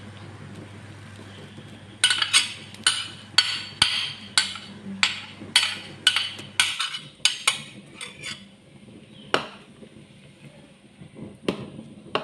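A kitchen utensil knocking repeatedly against a cooking pot, about two sharp knocks a second for five or six seconds, then a few scattered knocks.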